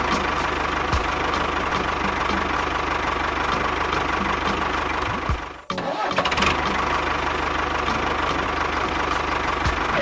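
A small engine running steadily. It cuts off abruptly about five and a half seconds in and comes straight back.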